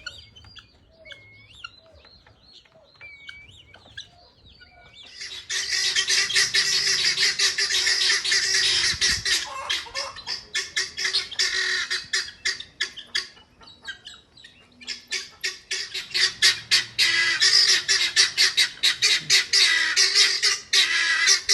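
Guinea fowl cackling: two long bouts of loud, rapid, harsh calls repeated many times a second, starting about five seconds in, with a short lull between them. Fainter chirping calls come before the first bout.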